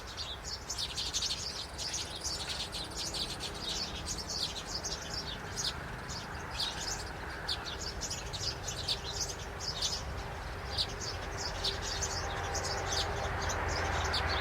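Birds chirping rapidly and continuously in short high notes, over a low steady rumble.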